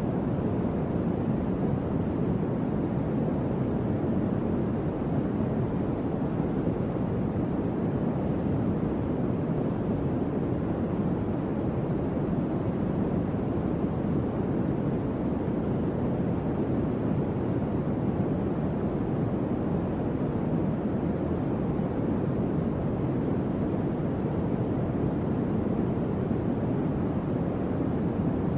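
Electric fan running: a steady, even rush of air, strongest in the low and lower-middle range, with no hum or rattle.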